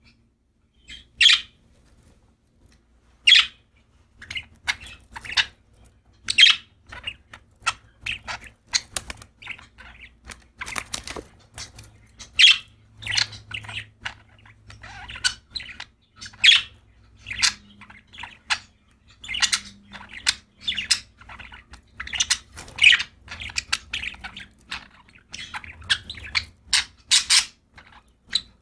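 Pet budgerigars chirping and squawking in short, sharp, irregular calls, one after another.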